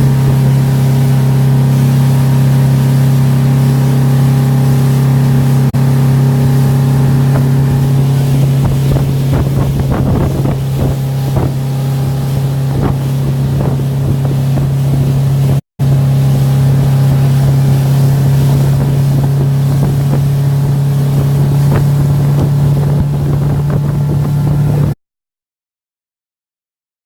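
Motorboat engine running steadily at an even pitch, with rushing water and wind noise mixed in around the middle. The sound cuts out for an instant about two-thirds of the way through and goes completely silent near the end.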